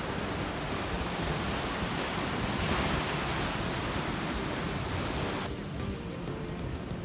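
Sea waves washing on the shore, a steady hiss that swells about three seconds in, with wind rumbling on the microphone. The high hiss drops away suddenly about five and a half seconds in.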